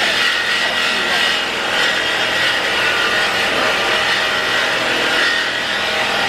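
Power cutting tool running steadily as it cuts through the steel exhaust pipe to remove a Dodge Charger R/T's mid mufflers. The cut goes on without a break, a harsh rasping noise with a wavering high edge.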